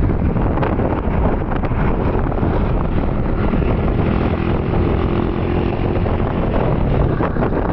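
Honda Wave 110i's small single-cylinder four-stroke engine running on the move, mixed with heavy wind rush on the microphone.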